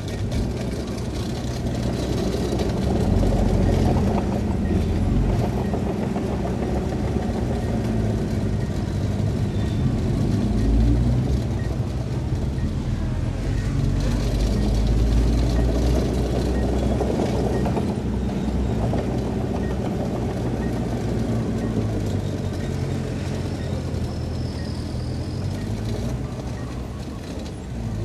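Heavy diesel engine of earthmoving machinery working, its level swelling and easing several times as the load changes.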